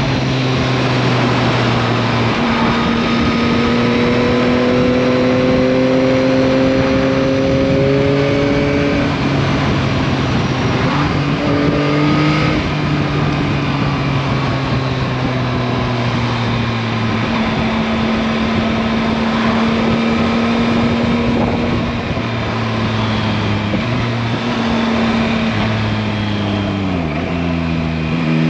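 Yamaha MT-09 (2021) 890 cc three-cylinder engine pulling under way over a steady rush of wind and road noise. The revs climb slowly at first, then hold steady. Near the end they drop sharply and pick up again.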